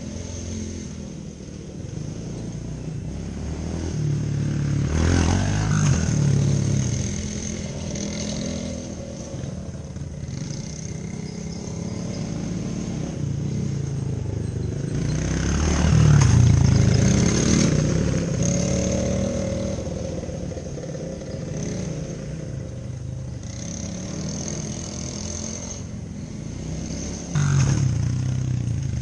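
Small off-road engines of a dirt bike and a quad running, their sound swelling louder about five seconds in, again in the middle, and jumping up suddenly near the end as a machine revs or passes close.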